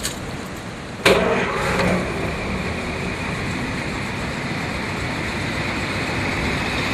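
1939 Cadillac V16's L-head (flathead) engine starting: it catches sharply about a second in, rises briefly, then settles into a steady, smooth idle.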